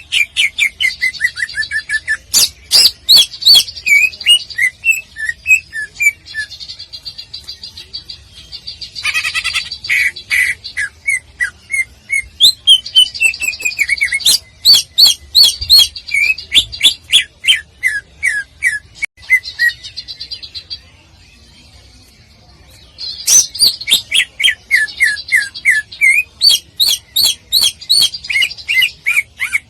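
Cucak ijo (green leafbird) singing in loud bursts: rapid volleys of sharp notes and runs of falling chirps. There is a pause of about two seconds roughly two-thirds of the way through.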